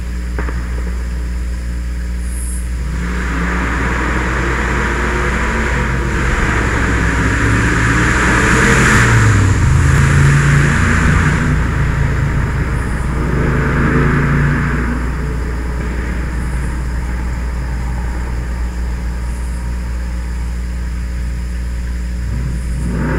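Truck driving past with its engine revved hard, building to its loudest about nine seconds in, swelling again briefly, and fading by about fifteen seconds. A steady low hum runs underneath, and another pass starts to build right at the end.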